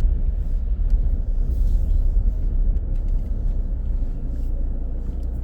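A car driving on city streets: a steady low rumble of engine and road, with a few faint ticks, which evens out about four seconds in.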